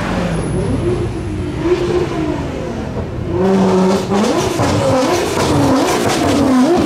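A sports car engine accelerating hard, its note climbing and dropping back several times as it shifts up through the gears, getting louder about halfway through.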